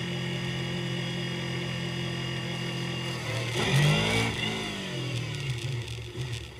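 Motorcycle engines: one runs steadily, then about three and a half seconds in a louder one sweeps up and back down in pitch as it revs or passes close by.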